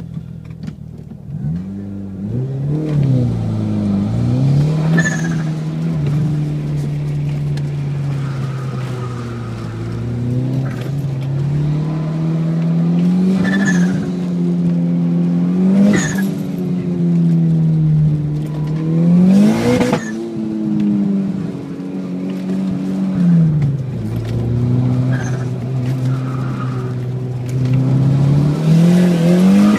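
Turbocharged 4G63 inline-four of an all-wheel-drive first-generation DSM heard from inside the cabin, revving up and down as it is driven hard, its pitch rising and falling repeatedly and climbing sharply to a peak about twenty seconds in. The worn street tires squeal at times in the turns.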